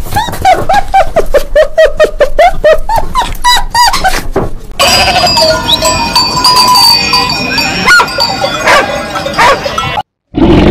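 A dog giving a quick run of short, rising-and-falling yips, about four a second, then sheep bleating from about halfway through.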